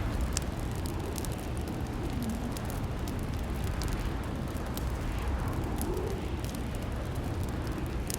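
Crackling fireplace fire: a steady low rumble of burning logs with irregular sharp pops and snaps scattered throughout.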